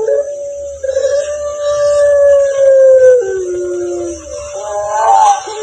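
An animal's long howl-like call: one drawn-out note lasting about three seconds that sinks slightly and then drops to a lower note, followed near the end by a shorter wavering call.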